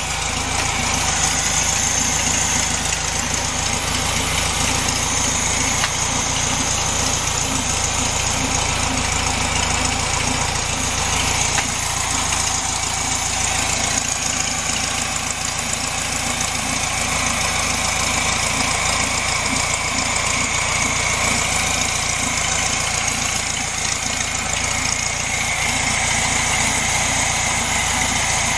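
1967 VW Beetle's air-cooled flat-four engine idling steadily, warm, at a fast idle of about 1200 RPM that still needs turning down to around 800.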